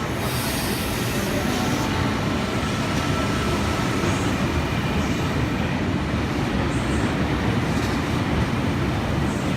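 Electric intercity passenger train at the station platform: a steady low rumble of its motors and wheels, with a short hiss in the first two seconds.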